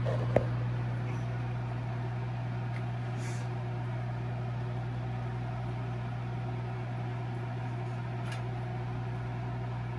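A steady low mechanical hum, like a kitchen appliance or fan motor running, with one sharp click about half a second in.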